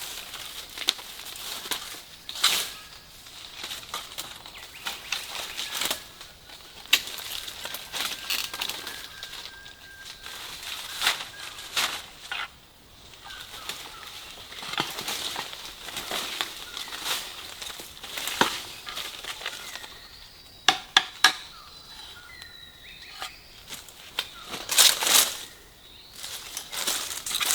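Dry fallen leaves rustling and crunching underfoot and under hand, with irregular sharp crackles and snaps of twigs, a few louder snaps near the end.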